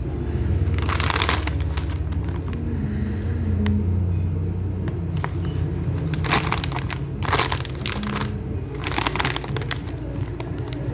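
Plastic packaging crinkling in four short bursts, about a second in and then three more in the second half, over a steady low hum.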